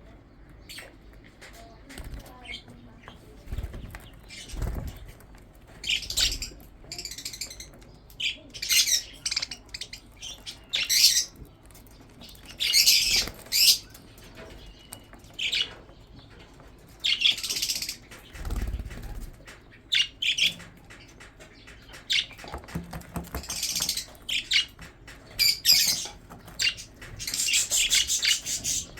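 Budgerigars chirping and chattering in short, high-pitched bursts of calls that come in clusters throughout, with a couple of low thumps.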